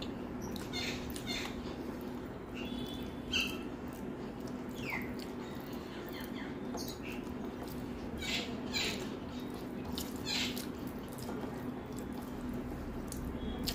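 Close-miked wet mouth sounds of someone eating rice and curry by hand: irregular chewing, lip smacks and squelchy clicks over a steady low hum.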